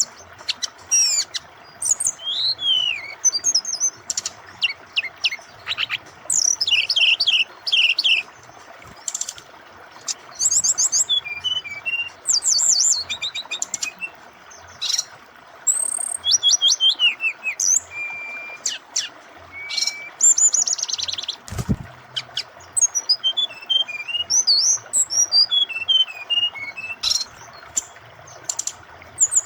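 Brown-chested jungle flycatcher singing a long, varied run of rapid chirps, trills and sweeping whistles in short phrases, over a steady background of flowing water. One brief low thump comes about two-thirds of the way through.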